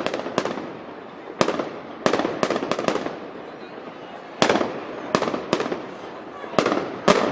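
An irregular string of sharp, loud bangs, each followed by a short echo; some come singly and some in quick runs of two or three, with a background of crowd noise between them.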